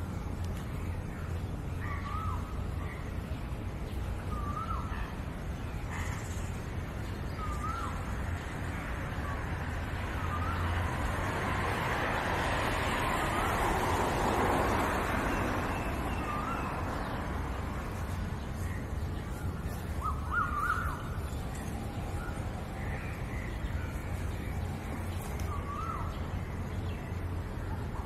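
A bird calling with short, repeated notes every couple of seconds, over a steady low rumble. Around the middle a broad rushing sound swells up and fades away.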